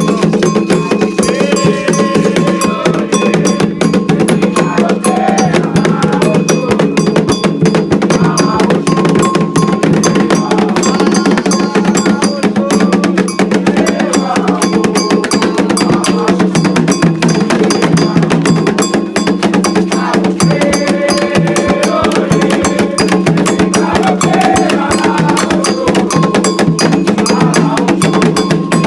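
Candomblé ritual music for Xangô: atabaque hand drums and a struck agogô bell keep a fast, steady rhythm, with voices faintly heard at times.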